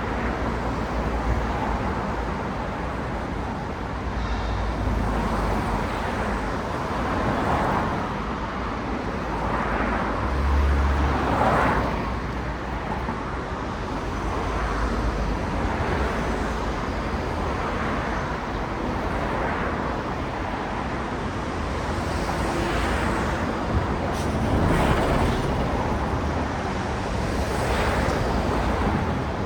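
Steady road traffic: cars passing one after another, each swelling and fading over a couple of seconds, over a continuous low rumble.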